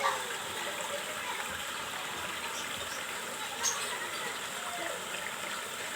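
Steady hiss of rain falling, with children's voices faint in the background and one short tick a little past the middle.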